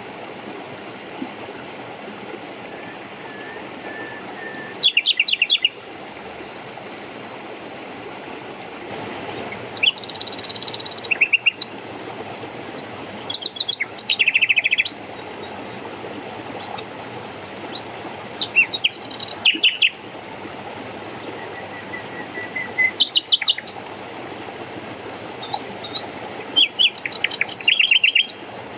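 Songbirds singing short phrases of quick, high chirping notes every few seconds, over a steady rush of flowing water.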